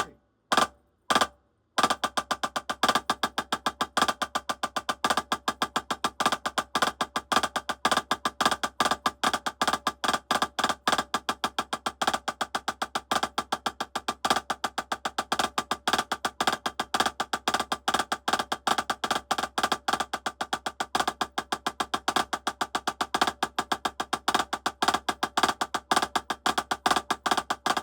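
Drumsticks playing Hertas (single-stroke threes): two single taps, then from about two seconds in a fast, even, unbroken stream of strokes with a bright, woody ring.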